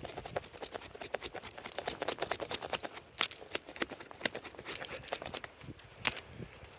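A dense, irregular run of crackling clicks and snaps, with a few louder sharp snaps.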